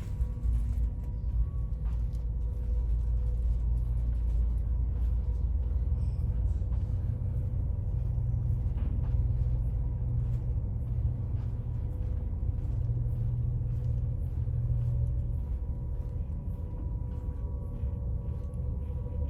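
Steady low rumble with a faint, even hum over it, the machinery and ventilation noise of a cruise ship heard on board.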